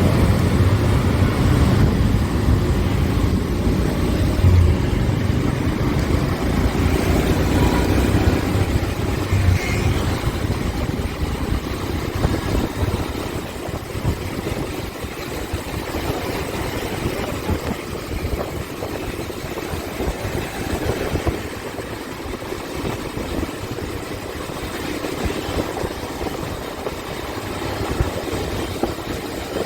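Motorcycle engine running as the bike is ridden, a steady low hum that is loudest for about the first ten seconds and then sinks under a rougher, even noise.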